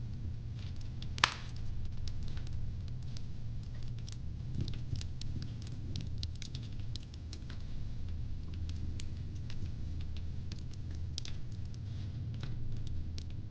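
Fire pit crackling: irregular sharp pops and snaps over a steady low rumble, with one loud crack about a second in.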